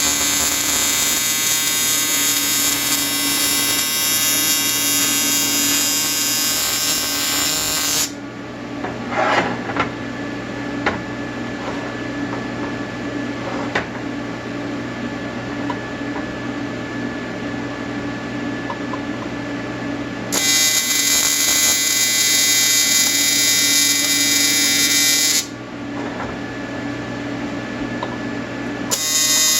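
A welding arc buzzing in three stretches: from the start to about 8 s, again for about five seconds from about 20 s in, and once more near the end. In the pauses a steady low hum remains, with a few short taps.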